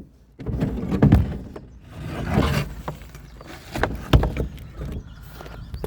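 Knocks, bumps and scraping as an old tractor cab's doors are handled and pulled out, with a couple of sharper knocks, one about a second in and one about four seconds in.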